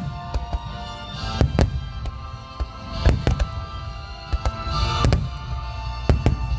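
Fireworks shells bursting, a sharp bang with a low rumble every second or two, over music with steady sustained notes.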